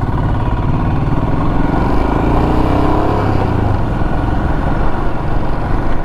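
Royal Enfield Himalayan's single-cylinder engine running while riding in traffic, its pitch rising briefly about halfway through as it pulls away.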